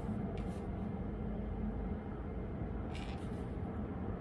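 Steady low background rumble with a faint hum, and a couple of faint light ticks about half a second and three seconds in.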